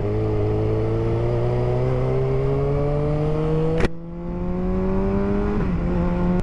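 Motorcycle engine pulling under steady acceleration, its pitch slowly rising. About four seconds in there is a sharp click and the pitch drops, an upshift, then it climbs again and settles near the end.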